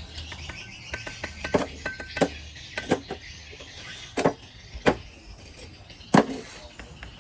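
Six or so sharp knocks at uneven intervals, each about a second apart, over a low steady hum: hard tapping during bricklaying work.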